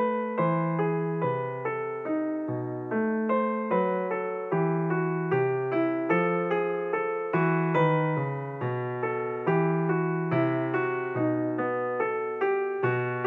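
Background piano music: a steady run of keyboard notes, each struck and fading, over a changing bass line.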